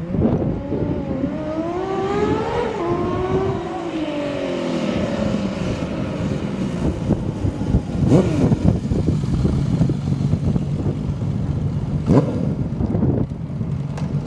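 Honda CBX 1050's inline six-cylinder engine revving: its pitch climbs over the first few seconds and then falls away, settling to a steady low note broken by two quick, sharp rev blips about eight and twelve seconds in.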